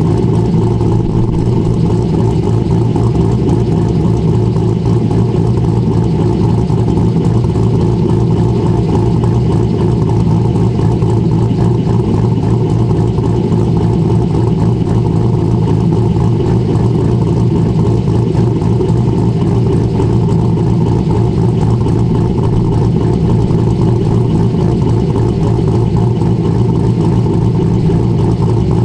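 Chevrolet Corvette C6 V8 engine idling, loud and steady, with no revs.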